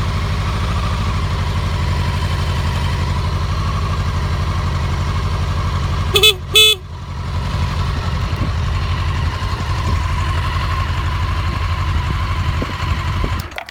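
Honda NC27 motorcycle engine idling steadily. About six seconds in, the horn gives two short beeps. The engine cuts off near the end.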